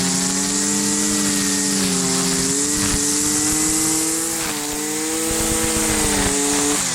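Husqvarna 326LD string trimmer's small two-stroke engine held at full throttle, a steady high-pitched whine that wavers slightly in pitch, then drops back toward idle near the end. The trimmer is running after its fuel line was replaced.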